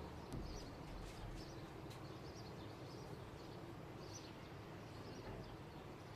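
Faint, scattered chirps of small birds over a steady low background rumble, with a couple of light clicks in the first two seconds.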